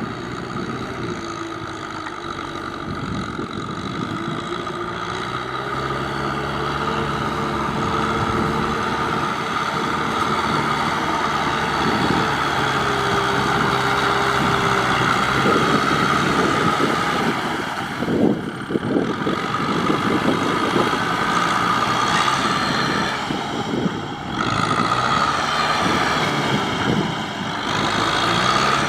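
Tractor engine working hard while ploughing mud, its pitch rising and falling with the load, with brief drops in level about two-thirds of the way through and again near the end.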